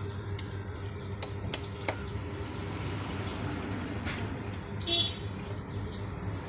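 A small 110 cc motorcycle engine running steadily, with a few sharp clicks early on and a brief metallic clatter about five seconds in.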